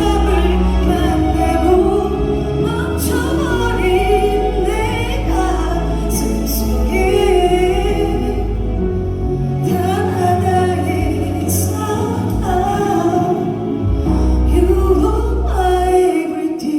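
A slow love song sung by a singer, likely a woman, over a backing track with a steady bass, which drops out near the end as the song winds down.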